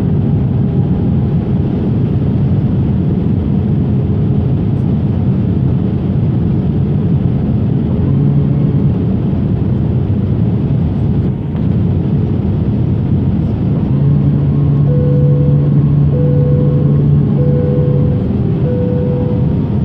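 Airliner cabin noise from inside the passenger cabin: a steady, loud rumble and rush of engines and airflow. A steady hum grows stronger about two-thirds of the way in, and a faint short tone repeats four times near the end.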